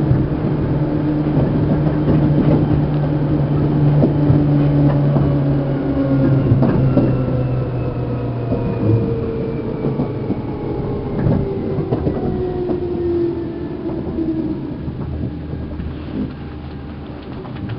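Seibu New 2000 series electric train heard from inside motor car MoHa 2291: the traction motors sing with several tones falling steadily in pitch as the train slows, over wheel clatter on the rail joints.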